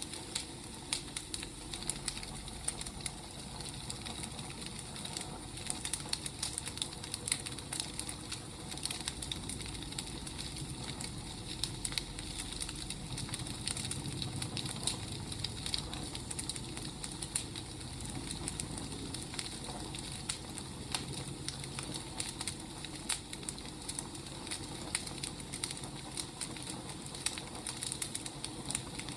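Wood fire burning with a dense, irregular crackle of small pops over a low, steady rumble.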